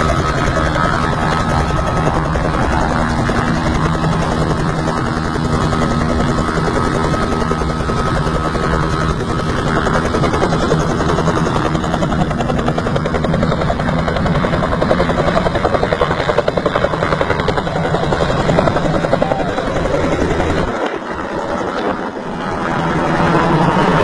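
Helicopter running loud and steady, its rotor beating rapidly over the engine. The deepest part of the sound briefly drops away about 21 seconds in.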